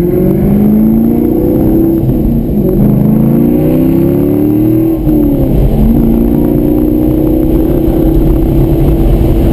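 2003 Corvette Z06's 5.7-litre V8 under hard acceleration, heard from inside the cabin: the engine note climbs and falls back at upshifts about half a second and two seconds in, pulls up again until about five seconds in, dips briefly, then holds a steady pitch.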